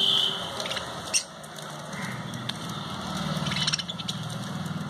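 Pet lovebirds chirping, short high squeaky calls and clicks, over a low steady hum.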